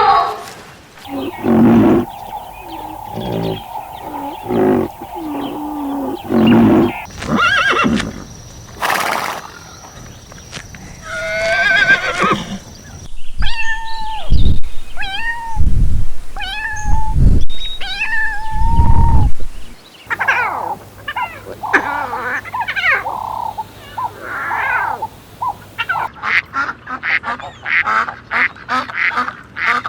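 Farm animal calls from several short clips in a row, among them a cat meowing repeatedly, with a run of quicker, denser calls near the end.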